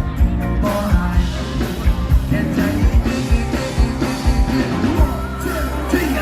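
Live band music with a steady, heavy drum and bass beat under sustained chords and a gliding melodic line.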